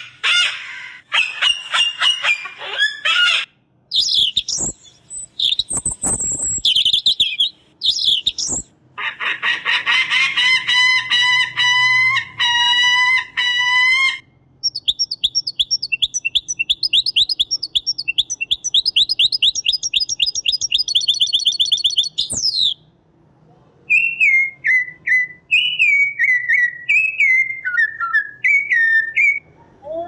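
A series of separate bird-call recordings played one after another. Harsh cockatoo screeches come first. Other bird calls follow through the middle, then fast, rapidly repeated twittering of a European goldfinch, and near the end a string of short whistled notes.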